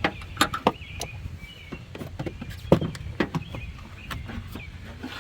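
Irregular clicks and knocks of hand tools and metal parts being handled, over a steady low rumble.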